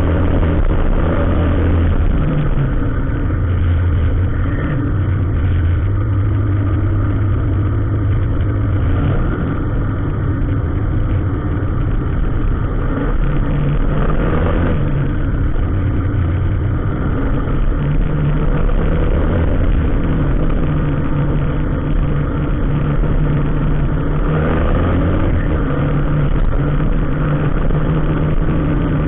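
Motor vehicle engine running steadily at low revs, its note shifting a few times.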